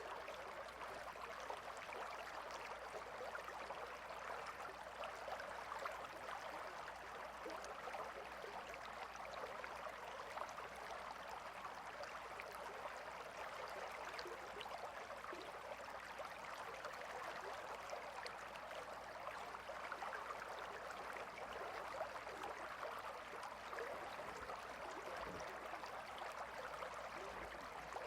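A gentle river flowing, a steady babble of running water.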